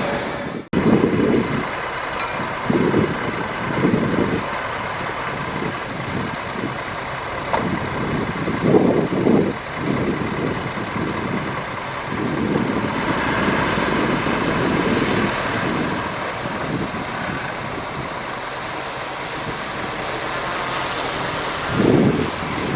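Heavy diesel earthmoving machinery, dump truck and bulldozer, running on a fill site, the engine note swelling and easing irregularly. The sound cuts out briefly just under a second in.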